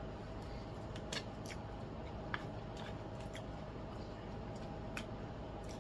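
Quiet eating sounds: about five small clicks spread over a few seconds as food is chewed and handled, over a steady low hum.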